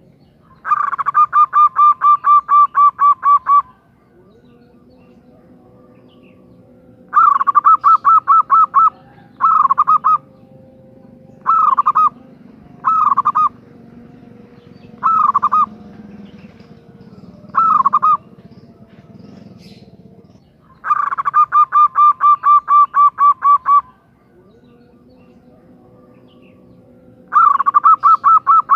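Female zebra dove (perkutut) calling in bouts of quick repeated notes, about four a second. Three longer runs are separated by several short bursts of a few notes each, over a faint steady hum.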